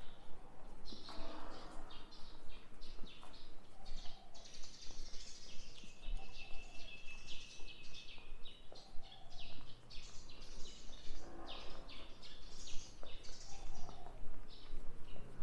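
Small birds chirping, many short high chirps overlapping, with one longer held note a little before the middle. A steady low hum comes in about two-thirds of the way through.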